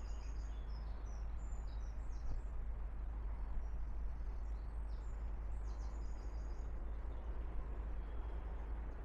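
Small birds chirping and twittering in quick high notes, most of them in the first six seconds, over a steady low outdoor rumble and background noise.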